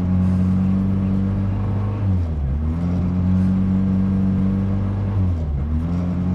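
Peugeot 106 rally car's engine running while the car stands still, heard from inside the cabin; the engine note sags and picks back up twice, roughly three seconds apart.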